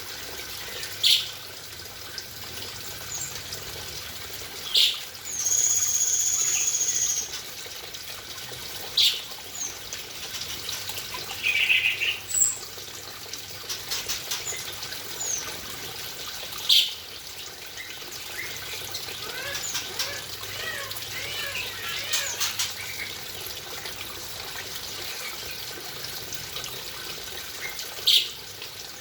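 Steady running water with small birds chirping over it: a sharp, loud chirp every few seconds, one longer whistled call about six seconds in, and softer twittering later on.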